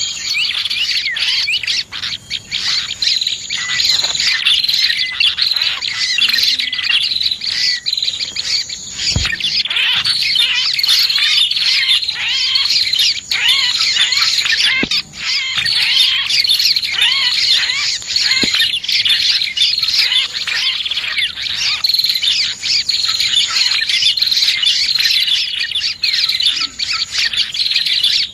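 Dense, unbroken chirping and twittering of small birds, led by prinia (prenjak) calls played as a bird-lure recording: rapid high notes and trills overlapping throughout.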